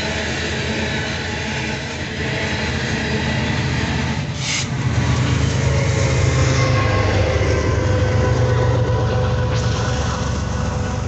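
Loaded coal train rolling past fast, the hopper cars' wheels clattering steadily on the rails. About four and a half seconds in there is a short hiss, and then the train's rear pair of BNSF diesel locomotives passes with a steady low engine drone.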